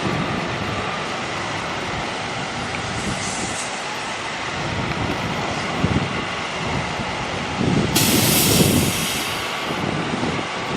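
Heavy truck running with a steady rushing noise and a few low thuds, and a loud burst of hissing about eight seconds in that lasts over a second.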